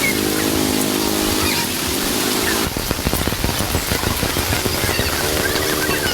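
Heavy rain pattering on a surface as a dense, steady hiss of drops, which turns to sharper, closer drips about two and a half seconds in. For the first couple of seconds a held, pitched voice-like sound is heard over the rain.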